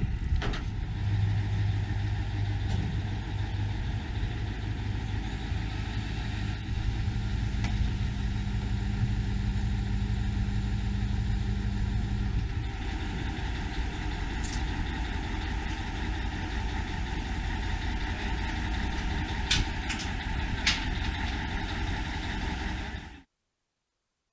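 A heavy engine running steadily, with a low steady hum through the first half. The sound cuts off abruptly near the end.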